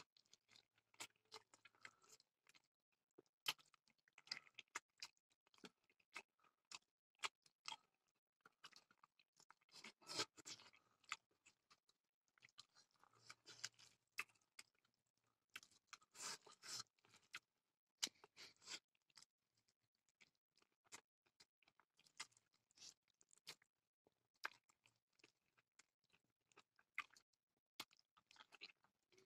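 Faint, scattered mouth sounds of a person chewing a mouthful of rice and pork: soft wet clicks and smacks at irregular intervals, with a few louder spells partway through.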